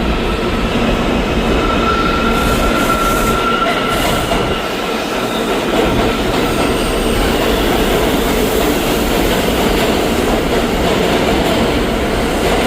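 New York City subway train running on the rails: steady wheel-and-rail noise, with a faint thin wheel squeal for a couple of seconds near the start.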